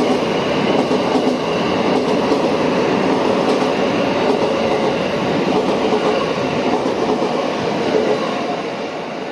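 An electric train running through a station without stopping: steady wheel and running noise that fades away over the last second or so.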